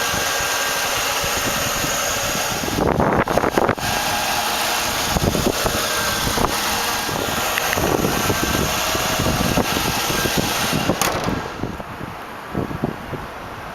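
The limousine's 4.6-litre V8 idling steadily with the hood open, with a few scattered knocks and bumps over it. The running sound drops off about eleven seconds in.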